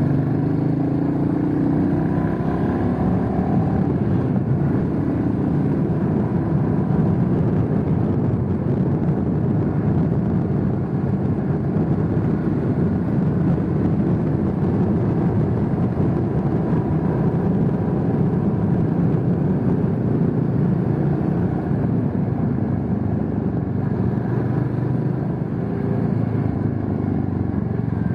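Motorcycle running at road speed, its engine note mixed with steady wind and road rumble. The engine pitch rises over the first few seconds as it accelerates.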